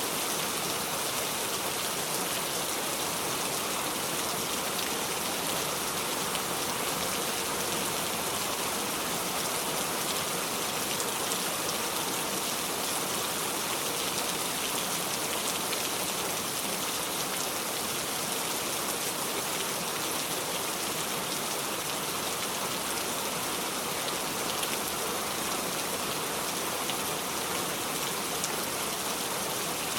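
Steady rain falling without thunder, an even hiss of drops spattering on a surface with no pauses or swells.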